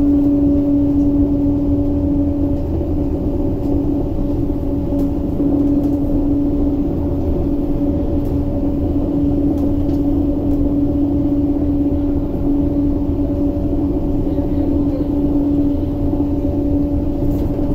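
Interior running noise of an MTR SP1900 (IKK) electric multiple unit cruising at speed: a steady low rumble of wheels on rail with a steady pitched whine over it. The whine drops away near the end.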